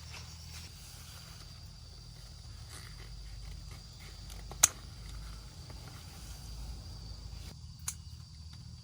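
Steady high-pitched insect drone over a low rumble, broken by a sharp snap about four and a half seconds in and a smaller click near the end.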